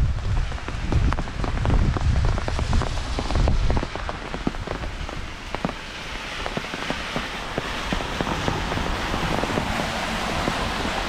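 Heavy rain, with many sharp drop impacts close by over a steady hiss. A low rumble runs under it for about the first four seconds and then drops away, leaving a steadier, higher hiss of rain.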